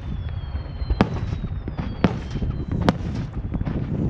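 Aerial firework shells exploding over a continuous low rumble of echoing booms, with three sharp bangs about a second apart. Thin whistling tones glide slowly downward throughout.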